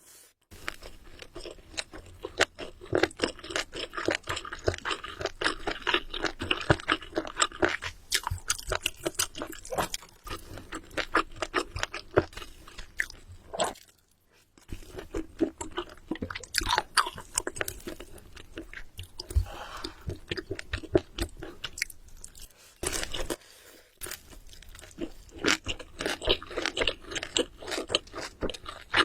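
Close-miked chewing and crunching of food, a dense run of crackling bites that pauses briefly about halfway through and again about three quarters through.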